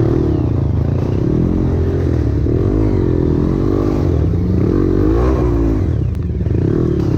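Trail motorcycle engine running under load, its revs rising and falling again and again as the throttle is worked, with a brief dip about six seconds in.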